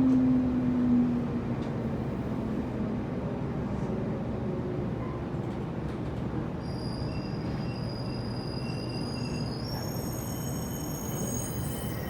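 Cabin sound of a JR Kyushu 811 series electric train standing at a station: a low tone dies away in the first second, leaving the steady hum of the train's onboard equipment. About halfway through, several high steady tones join in.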